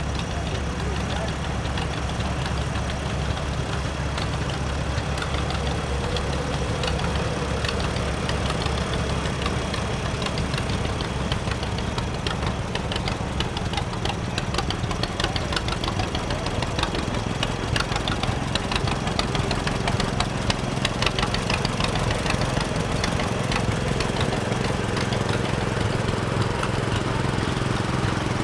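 Antique tractor engines running steadily, with a rapid clatter of clicks through the middle; the engine note changes a little past halfway.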